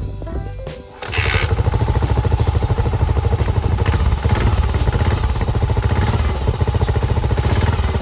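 Yamaha SR400's single-cylinder engine starts about a second in and settles into a steady idle through an aftermarket Daytona Caboton-style muffler, its exhaust beat an even, quick pulse. Background music is heard briefly before the engine catches.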